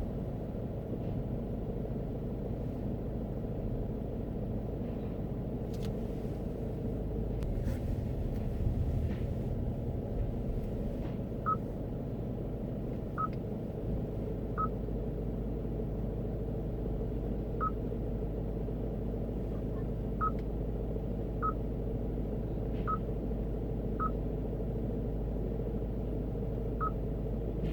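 Car driving, with a steady low road and engine rumble heard from inside the cabin. From about halfway in, nine short, high electronic beeps come at irregular intervals.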